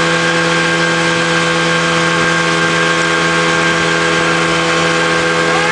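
Motorboat engine running at a steady speed, a constant even hum.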